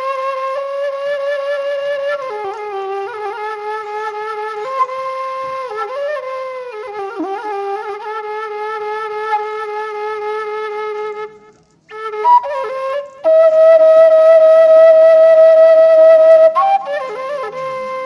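Background music: a solo flute playing a slow melody of long held, slightly wavering notes, breaking off briefly about two-thirds of the way through before a long, loud sustained note.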